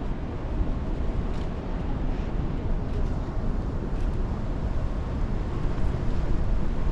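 Steady low rumble aboard a cruise ship underway: wind and ship noise.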